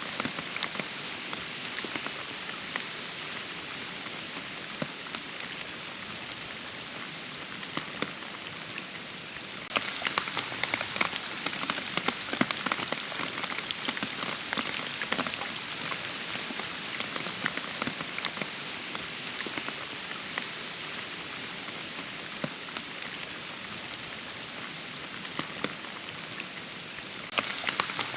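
Steady rainfall, a dense hiss studded with the ticks of individual drops. About ten seconds in it turns louder, with sharper drop hits, then slowly eases, and it grows louder again just before the end.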